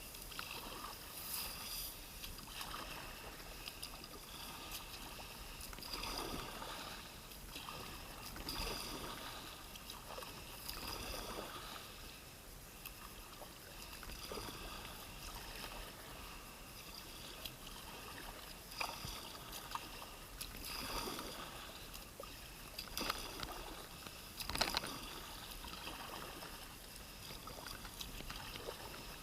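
Kayak paddle strokes dipping into and splashing through water, coming irregularly every couple of seconds, with one louder splash near the end.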